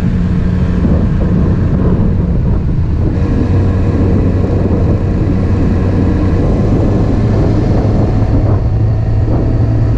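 Honda Grom's small single-cylinder engine running at steady road speed, with wind rushing over the rider's camera mic. The engine note drops about two seconds in, then holds steady.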